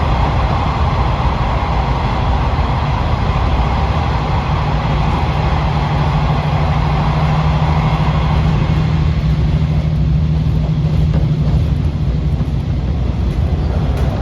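KiHa 40 series diesel railcar running on the line, a steady rumble of engine and wheels on rail. A steady engine note comes in about five seconds in and fades near the end, and a higher hiss drops away about halfway through.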